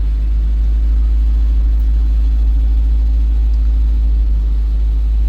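Steady low rumble of a running motor vehicle, even and unchanging throughout.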